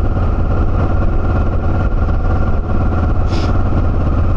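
Motorcycle engine running steadily at cruising speed while riding, heard from on the bike.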